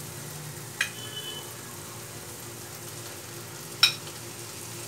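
Onion-tomato spice masala frying in oil in a pan, a steady sizzle, the masala fried until the oil has separated. A sharp knock about a second in and a louder one just before four seconds come from utensils striking the pan as the yogurt-marinated chicken is tipped in.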